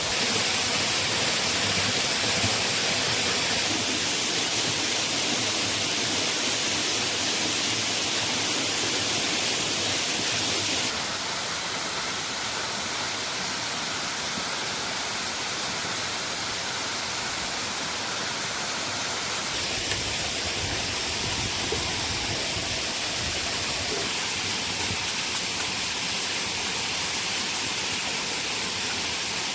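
Steady rushing of a waterfall, its hiss changing abruptly in level and tone about 11 and 20 seconds in.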